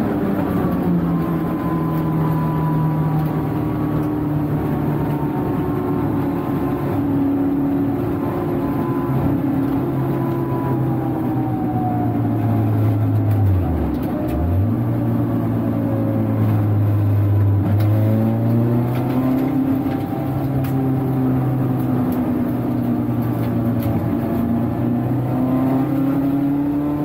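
Turbocharged Renault Clio 172's four-cylinder engine heard from inside the stripped race-car cabin, running on track at a fairly steady note. About halfway through the pitch dips sharply and comes straight back up, as on a lift or gear change.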